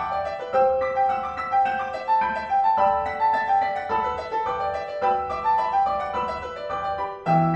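Piano music: a steady run of melodic notes, with lower bass notes coming in near the end.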